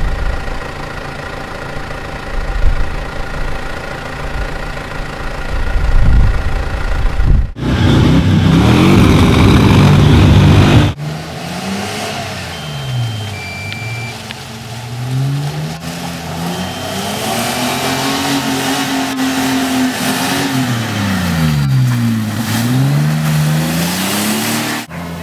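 Four-wheel-drive engines revving through deep mud, cut together from several shots. For the first several seconds there is a steadier hum with high whining tones. After that the engine pitch rises and falls again and again as the throttle is worked.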